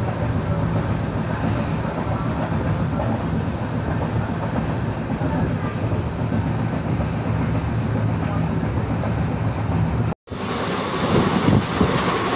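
Moving passenger train heard from inside the coach: steady rumble of wheels on the track, with a low hum. Just after ten seconds the sound cuts out for an instant and comes back louder and rougher, with more clatter.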